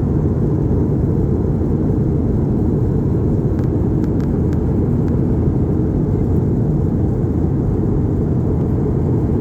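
Steady low rumble of a vehicle's cabin noise while travelling, with a few faint ticks about four seconds in.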